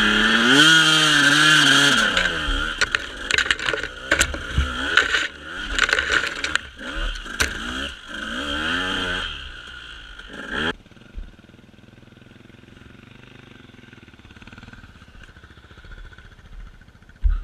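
A motorcycle engine revving, its pitch climbing and then dropping over the first two seconds. It then runs at lower, uneven revs with many sharp clicks, and cuts off abruptly about ten seconds in. Faint low background noise follows.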